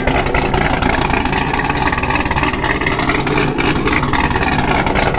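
The camshaft-upgraded 6.2-litre V8 of a C7 Corvette running at idle, a steady, even exhaust note.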